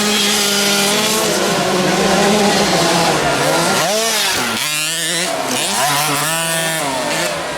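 Motocross bike engines running hard, then revving up and down several times from about four seconds in.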